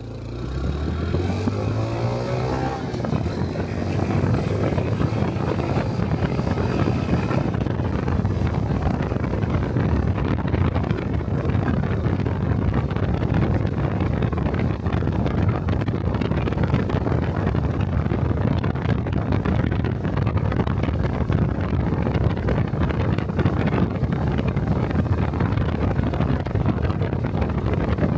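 A Honda 125 cc Cub motorcycle's single-cylinder engine pulls away, its pitch rising through the first few seconds, then settles into steady riding with road and wind noise on the microphone.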